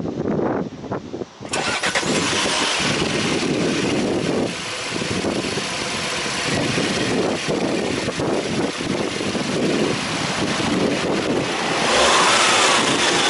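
2017 Audi A4's 2.0 TFSI turbocharged four-cylinder engine running, heard from the open engine bay; it comes in suddenly about one and a half seconds in. Near the end it gets louder and its pitch rises and falls as it is revved.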